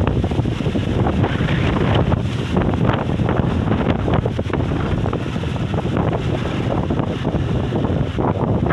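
Strong wind buffeting the microphone with a loud, continuous rumble and irregular gusts.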